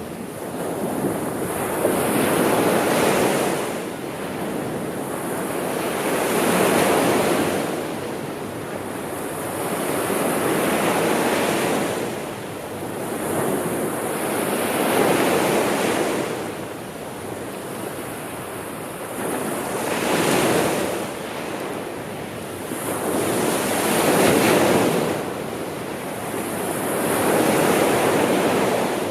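Sea surf: waves breaking and washing ashore in slow swells, each rising and falling over about four seconds.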